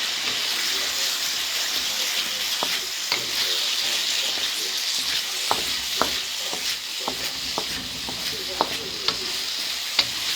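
Chicken and mushrooms sizzling in a hot wok as they are stir-fried, a steady hiss with scattered sharp clicks and taps of the utensil against the pan, more of them in the second half.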